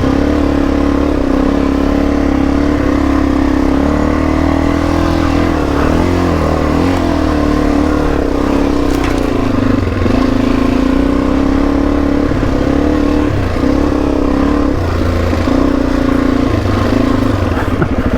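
Suzuki DR-Z400E single-cylinder four-stroke engine running under way, its pitch rising and falling with the throttle. Near the end it drops to a slow, even putter at low revs.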